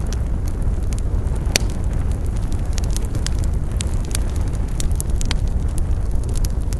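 Wood campfire burning: a steady low rush with frequent sharp crackles and pops of burning wood, one louder pop about a second and a half in.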